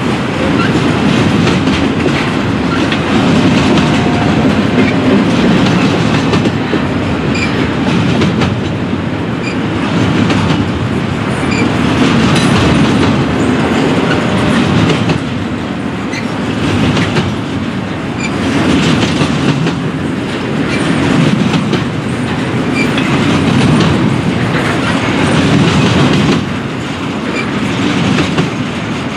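Double-stack intermodal well cars rolling past close by: a steady rumble of steel wheels on rail with clickety-clack as the wheels cross rail joints, swelling and easing every few seconds as the cars go by.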